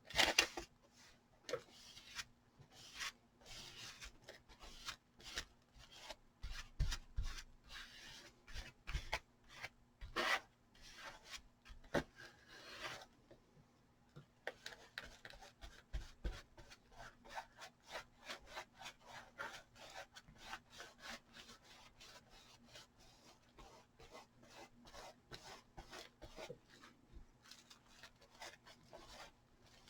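A paintbrush stroking Odicoat waterproofing gel onto a fabric hat: faint, short scratchy strokes, spaced out at first and coming several a second from about halfway.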